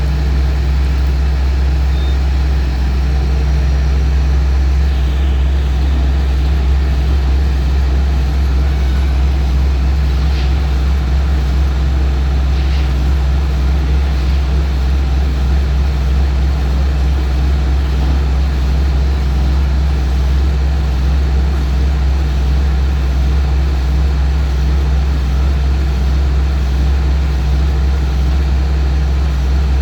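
A heavy engine running steadily: a constant low hum that does not change in pitch or level.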